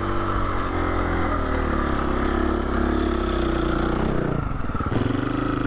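Husqvarna 350 FE's single-cylinder four-stroke engine running at low revs, its pitch wavering with small throttle changes, then dropping to a slow, pulsing idle about four and a half seconds in.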